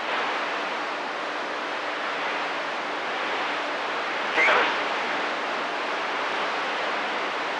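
Steady static hiss from a CB radio speaker between transmissions, with a short burst of a brief keyed-up signal about four and a half seconds in.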